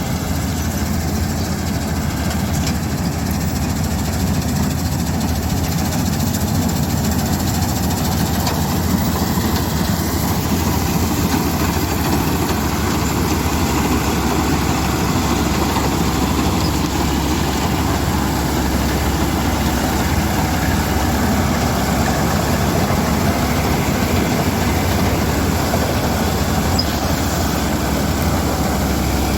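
Combine harvester's diesel engine running steadily, a continuous heavy drone that holds even throughout.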